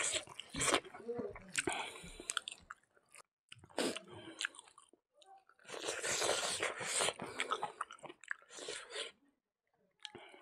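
A person chewing a mouthful of food close to the microphone, in irregular bursts broken by short pauses.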